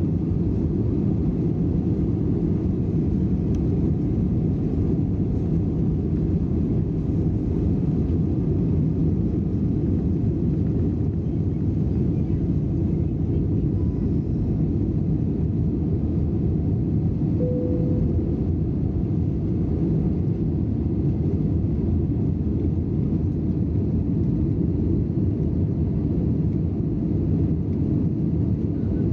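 Steady engine and airflow rumble heard inside the cabin of an Airbus A320 airliner, deep and even throughout. A short faint tone sounds once, a little past halfway.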